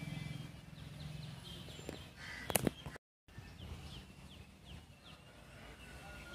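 Outdoor ambience with a run of short, high, falling bird chirps a little past the middle, after a sharp click and a moment where the sound cuts out.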